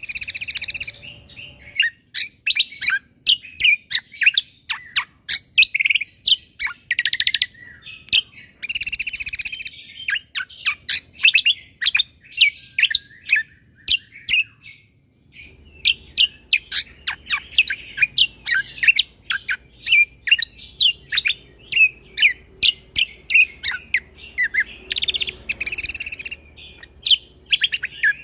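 Cucak kombo (kecial kombok) songbird singing in full, energetic voice: a dense, rapid string of sharp chirps and whistled notes, broken by a few buzzy rattling phrases, with a brief lull about halfway through.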